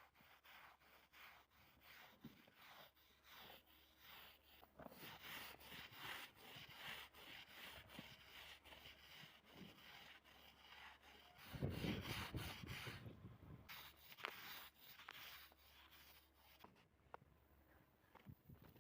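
Quiet rubbing and scrubbing of a cloth over a surface during household cleaning, with many small clicks and knocks of things being handled and a louder knock about twelve seconds in.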